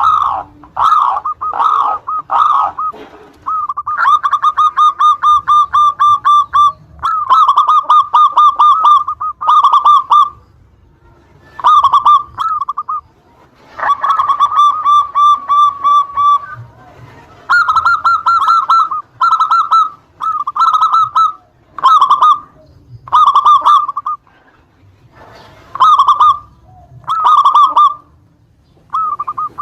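Zebra dove (Javanese perkutut) cooing: short, loud coos on a fairly steady pitch, broken by two long, rapid rolling trills, one a few seconds in and one about halfway. After the second trill come short separate coo phrases, roughly one a second.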